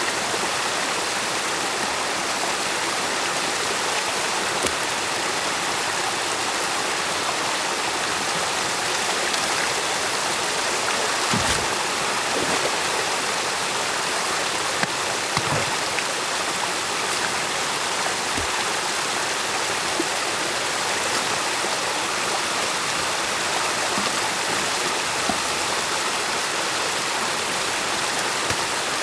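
Stream water rushing steadily, as around a beaver dam being opened, with a few dull low thumps partway through.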